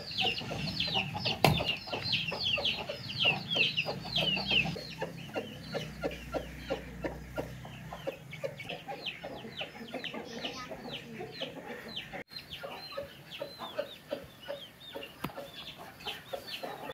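Birds calling: a rapid series of short, high, falling chirps, loudest in the first few seconds, over lower clucking calls repeated a few times a second.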